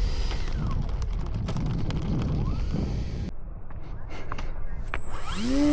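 Wind buffeting the microphone with a steady low rumble. Near the end an RC model plane's electric motor spools up with a quickly rising whine, then holds a steady pitch.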